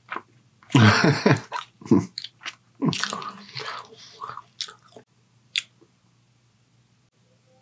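Close-miked chewing of a mouthful of soft, dipped sandwich: wet mouth sounds and lip smacks in uneven bursts for about five seconds, then it goes nearly quiet.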